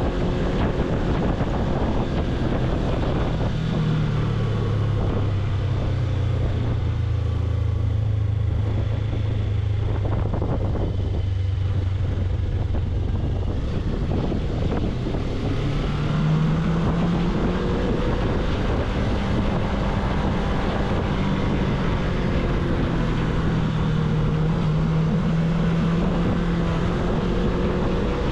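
Suzuki V-Strom 250's parallel-twin engine running under way, with wind on the microphone. The engine pitch drops about four seconds in, holds lower for a while, then rises again a little past halfway.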